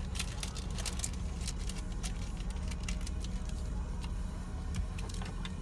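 Spray from an automatic touchless car wash hitting the car body, heard from inside the cabin as irregular ticking and pattering over a steady low hum.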